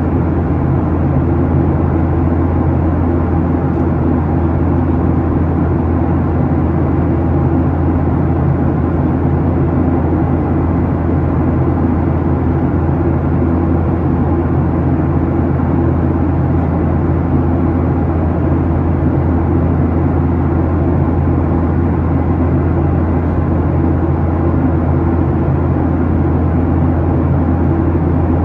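Steady cabin noise inside a Boeing 737-800 in its climb: its CFM56-7B engines and the airflow give an even low drone with no change.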